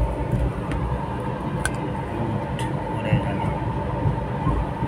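Steady rumble of a moving passenger train, heard from inside the carriage, with a few faint clicks.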